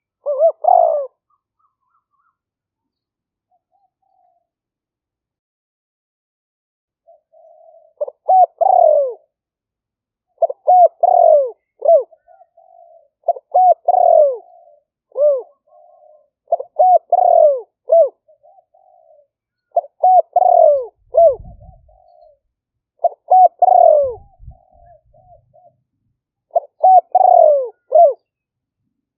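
Spotted dove singing: one short burst of cooing, a pause of several seconds, then phrases repeated about every three seconds, each a few quick falling coos trailing into softer notes. It is the continuous coo-and-crow song of a decoy male used to lure wild doves.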